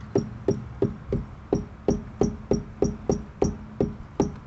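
A Pontiac G6's rear end bouncing as a tire is kicked about three times a second, each kick a dull thump with a short high chirp that sounds like a cricket. The owner traces the chirp to the emergency brake cable rubbing on its clip for lack of grease.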